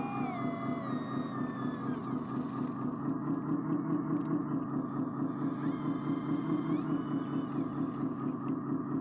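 RC construction model running, its sound module putting out a steady, fast-pulsing diesel-style engine sound. A higher electric motor whine steps down in pitch in the first two seconds and returns briefly around six to seven seconds in.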